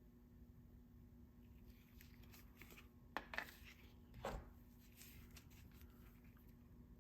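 Faint handling noise: light rustling, two sharp clicks a fraction of a second apart about three seconds in, and a duller knock about a second later.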